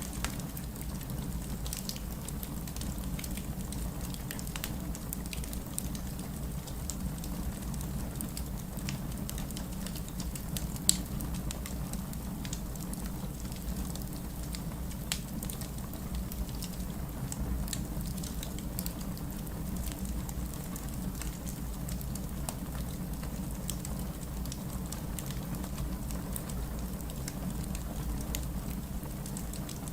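Fireplace crackling with scattered sharp pops, one louder about eleven seconds in, over steady rain and a low, constant rumble.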